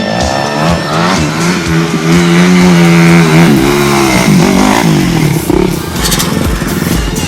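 Motocross bike engine revving hard: the pitch climbs and holds high for about a second and a half, drops off sharply about three and a half seconds in, then rises and falls again as the throttle is worked.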